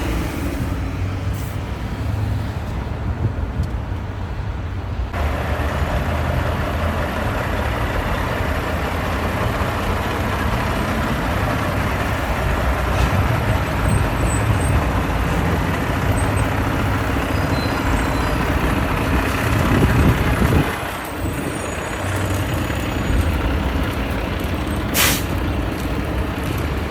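Heavy trucks and road-repair machinery running steadily in street traffic. An engine briefly revs up and back down about two-thirds of the way through, and a short sharp hiss comes near the end.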